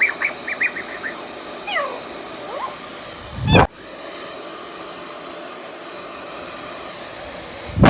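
Hairdryer blowing steadily while a parrot gives a quick run of short chirps and a falling whistle in the first two seconds. Two short loud bursts come about three and a half seconds in and near the end.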